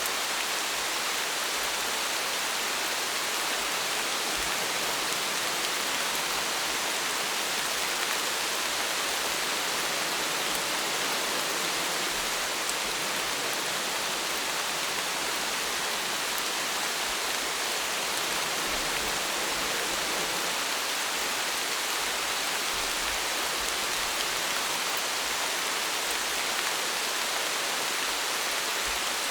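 Steady rain falling, an even hiss with fine drop patter and no change in strength.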